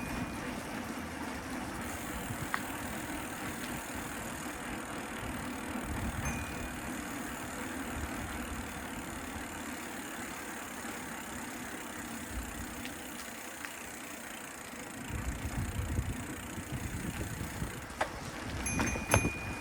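Street noise heard from a moving bicycle: a steady hiss of traffic and road, with low wind buffeting on the microphone that swells past the middle, and a few sharp rattling clicks near the end.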